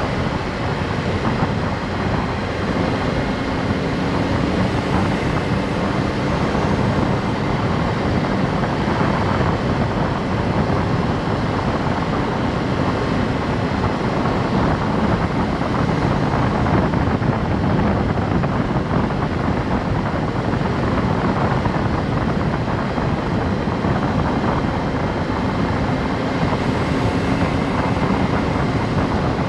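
Honda S660's turbocharged three-cylinder engine and road noise at a steady cruise, with a low engine drone under the noise, picked up by a GoPro set to its rear microphone.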